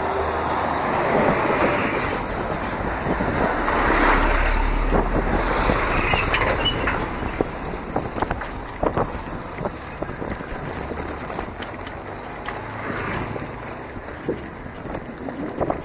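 Riding noise on a rough trail: a steady rush of wind and tyre noise with many small rattles and knocks. A deeper rumble comes in about four seconds in and lasts a couple of seconds.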